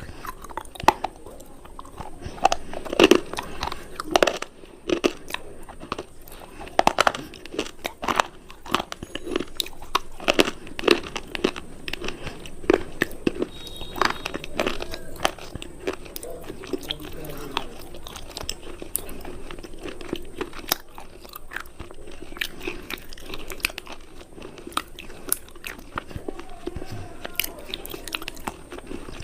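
Hard crunchy cubes being bitten and chewed close to the microphone: sharp crunches come thick and loud for the first half, then give way to softer, steadier chewing.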